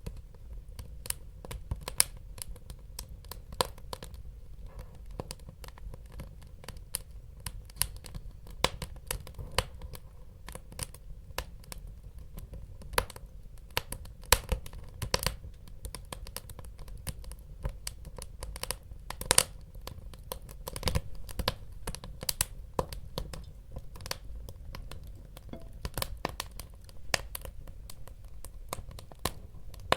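Wood fire burning in a fireplace: irregular sharp crackles and pops over a low rumble of the flames.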